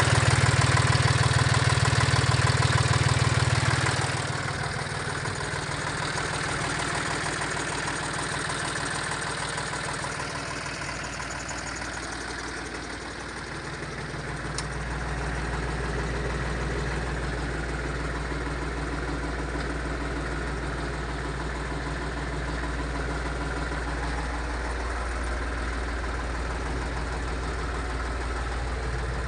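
Diesel engine of a 1989 Torpedo DT4806 Adriatic tractor running steadily. It is louder for the first few seconds, then drops back to a quieter idle, and its note settles lower about halfway through.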